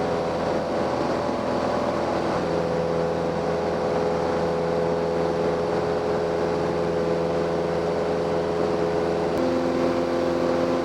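Cessna 172M's four-cylinder Lycoming engine and propeller droning steadily in the climb, heard inside the cabin. Its tone shifts slightly about two seconds in and again near the end.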